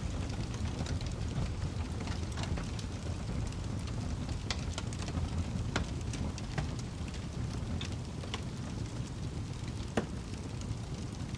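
Wood fire crackling in a fireplace: a steady low rumble with scattered crackles and pops, one sharper pop near the end.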